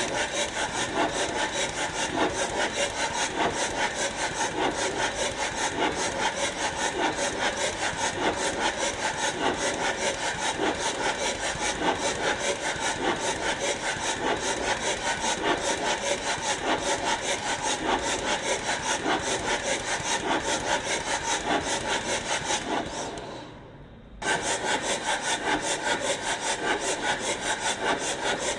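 Rapid, steady back-and-forth scraping strokes, about four a second, like rubbing or sawing work on metal or wood; it fades out about 23 seconds in and starts again abruptly a second later.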